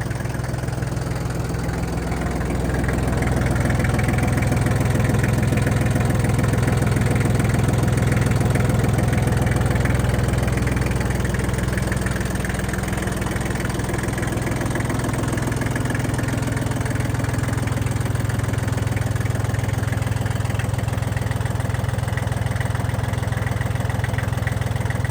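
Iseki TL2301 compact tractor's three-cylinder diesel engine running steadily. It gets louder about three seconds in and eases back down around ten seconds.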